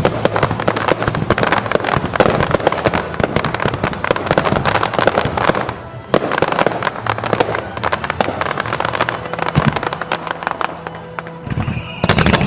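Aerial fireworks bursting overhead in dense, continuous crackling, many sharp pops a second, easing briefly twice before a heavy burst near the end.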